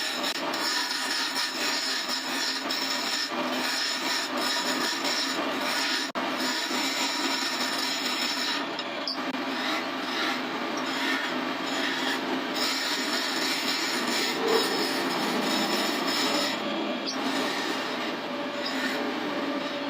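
A wooden cot leg spinning on a lathe, with continuous rubbing and scraping against the turning wood and a steady whine. The sound breaks off for an instant about six seconds in.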